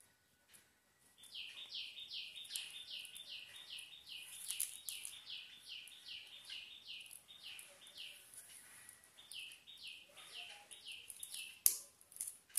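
A bird calling in a fast run of short, high, falling notes, about three a second, breaking off briefly around eight seconds in and then going on. Faint rustling and clicking of plastic weaving wire under the calls, with one sharp click near the end.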